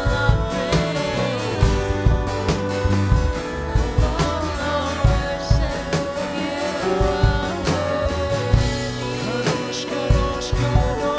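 Live worship band music: drum kit, bass and guitar keeping a steady beat, with some singing over it.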